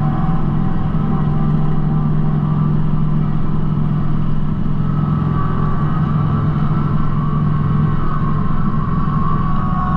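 Kubota B2650 compact tractor's three-cylinder diesel engine running steadily at working speed, with a higher whine above it that grows stronger about halfway through.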